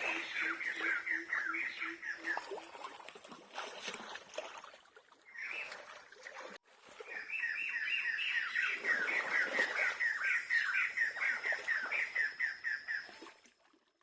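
A bird's fast chattering call: short notes, about eight a second, in two long runs. The first fades out in the first few seconds and the second runs from about seven seconds until near the end.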